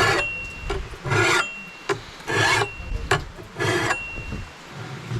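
Four rasping scrape strokes, about one every 1.2 seconds, each followed by a brief thin ringing tone.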